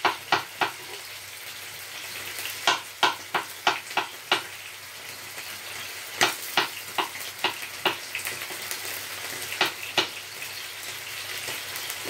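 Thin strips of lamb sizzling steadily in oil in a frying pan, with runs of quick, sharp knife strokes on a wooden chopping board over it: a few at the start, a run of about six a few seconds in, a longer run of about eight in the middle, and two more near the end.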